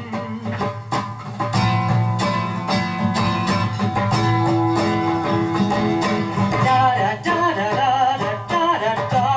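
Live guitar music: the instrumental intro of a rock song, with guitar chords picked and strummed in a steady rhythm and a wavering melody line above them.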